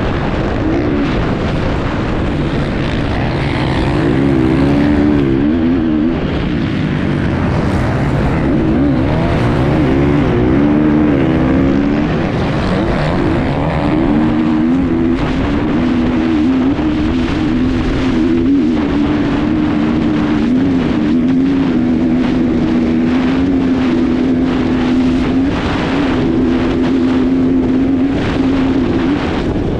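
Enduro motorcycle engine running hard, its revs rising and falling again and again as the throttle is worked, heard from a camera mounted on the bike.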